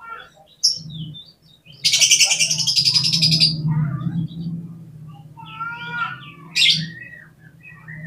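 Oriental magpie-robin (kacer) singing: short sharp high notes, then a loud rapid harsh rattle lasting about a second and a half, followed by whistled sliding phrases and another sharp note.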